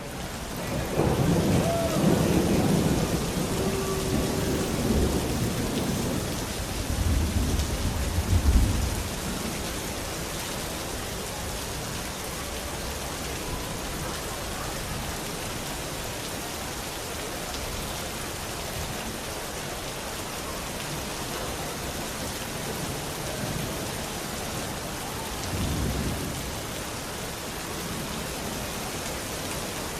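Steady rain hiss with rolling thunder: a long rumble through the first nine seconds, loudest near its end, and a shorter rumble about 26 seconds in.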